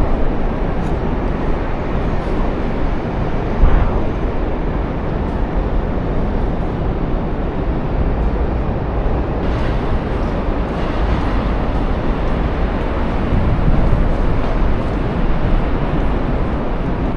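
Strong wind blowing across the microphone, a steady low rumble with a short louder bump about four seconds in.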